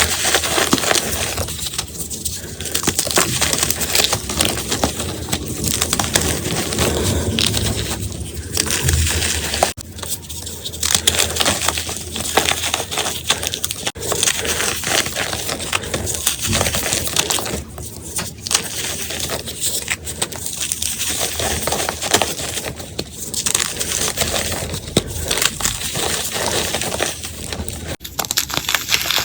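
Blocks of gym chalk being crushed and crumbled, a dense crunching that goes on with short lulls every few seconds.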